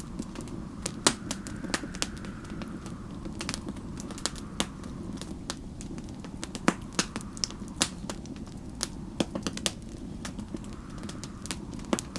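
Wood fire crackling and popping irregularly, with the sharpest pops about a second in and near seven seconds, over a steady low rumble. A whistling snowstorm wind slowly falls and rises behind it.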